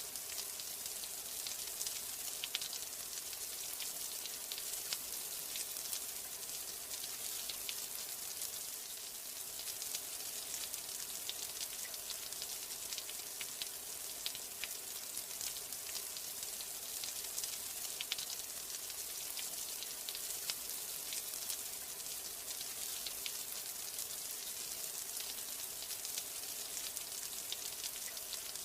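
Steady rain: an even high hiss with many small drop ticks scattered through it.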